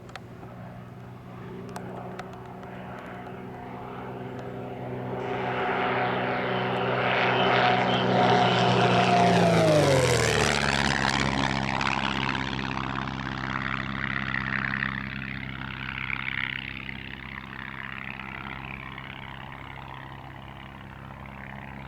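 Lancair 320 single-engine propeller plane's piston engine on a high-speed flyby. It grows louder as it approaches, and its pitch drops sharply as it passes about ten seconds in. It then fades away slowly.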